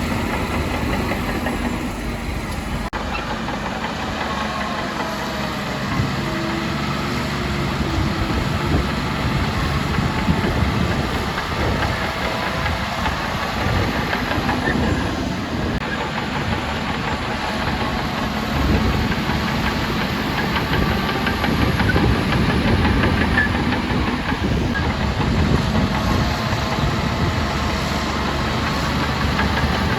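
Diesel engines of heavy earthmoving machinery running under varying load, their pitch rising and falling slowly. There is an abrupt change about three seconds in.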